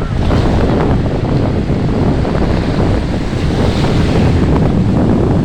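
Wind buffeting the microphone over the wash of sea surf, as a loud, steady rumble, with a brief hissing swell of breaking water about four seconds in.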